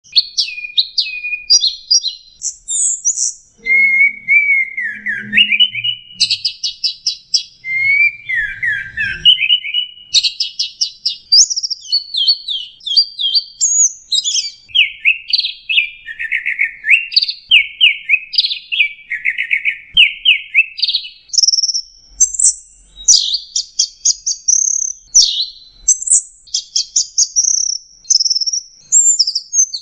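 Long-tailed shrike (cendet) singing nonstop: a fast, high-pitched run of varied chattering phrases, with quick sweeping notes and short trills following one another without a break.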